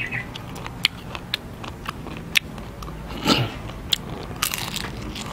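Mouth chewing roasted large crickets, with many short sharp crunches of the crisp insects.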